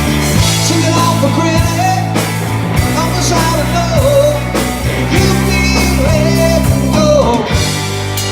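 Rock song with a sung melody, guitar and a steady drum beat, played loudly through a car's stereo system.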